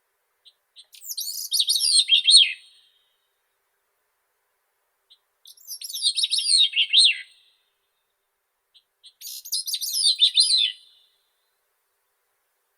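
Grey-cheeked thrush singing: three songs, each about two seconds long, beginning with a few thin high notes and running into a jumbled series of high, down-slurring whistles that fall in pitch at the end. Silence between the songs.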